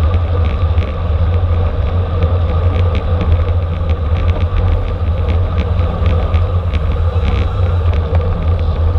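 Racing bicycle in motion: steady wind and road rumble on the microphone, with light ticking.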